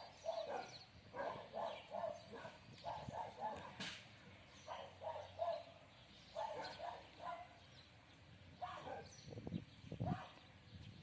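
Bouts of short animal calls, a few in quick succession, repeating every second or two.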